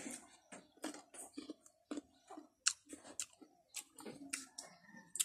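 Person chewing crisp unripe green mango, with sharp crunches about two to three times a second.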